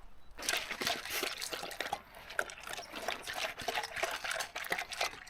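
Irregular wet crackling and splashing of water, dense with small clicks, starting about half a second in.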